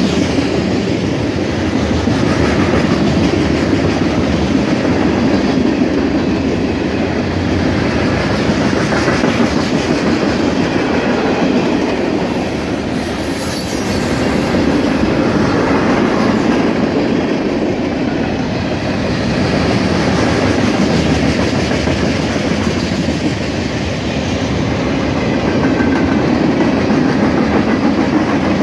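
Freight cars of a long mixed freight train rolling past at speed: a steady, loud rumble of steel wheels on the rails that eases and swells again every five or six seconds as the cars go by.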